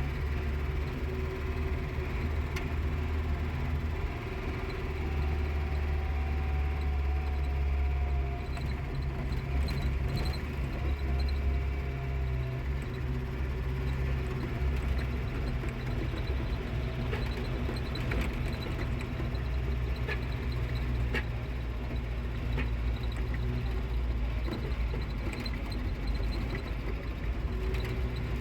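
Motor vehicle driving along a rough road: a steady low engine and road rumble, with a faint wavering whine and scattered light clicks and rattles.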